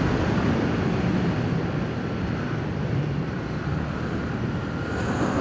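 Yamaha MT-07's parallel-twin engine running through its stock exhaust at a steady cruising pace, mixed with wind rushing over the microphone.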